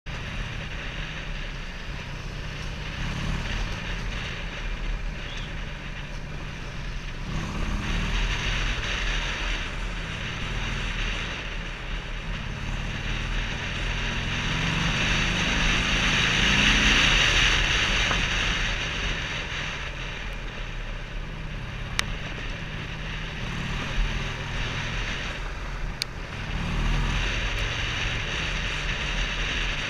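Waterfall: a steady roar of rushing, falling water that swells and eases, with wind buffeting the microphone and two sharp clicks in the second half.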